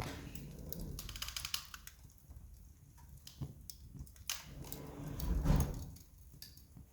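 Wood campfire crackling, with irregular sharp pops and a dense run of fine crackles about a second in. A low rushing swell builds and fades about five seconds in.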